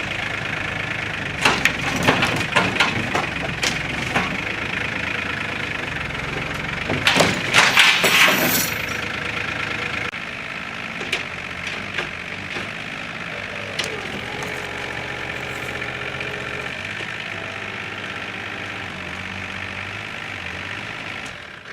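Challenger MT275 tractor's diesel engine running steadily under load while the wooden fort it is pulling on cracks and crashes, with a burst of sharp cracks about two seconds in and a louder cluster of crashes about seven to eight seconds in, then a few smaller knocks. The engine runs on steadily afterwards.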